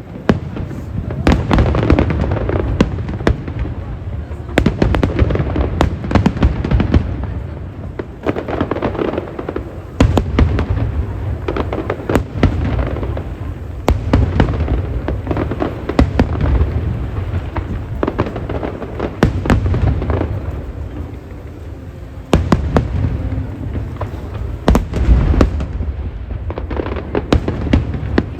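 Aerial fireworks display: a dense, continuous barrage of sharp bangs and deeper booms over a steady rumble and crackle, coming in surges with brief lulls.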